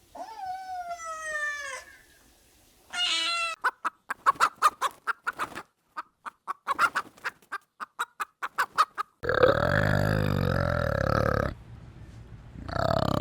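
Chicken clucking in a quick run of short clucks lasting about five seconds. Before it come two falling pitched calls, and after it come two long, loud, low animal calls, the loudest sounds here.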